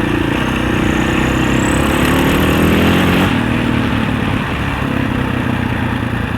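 Husaberg 650 enduro dirt bike's single-cylinder four-stroke engine running under way on a trail. Its note shifts with the throttle in the first few seconds, then holds steadier.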